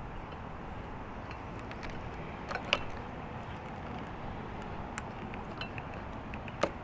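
Small sharp plastic clicks from handling a motorcycle's fuses and fuse box, two louder ones about three seconds in and near the end, over a steady outdoor background hiss.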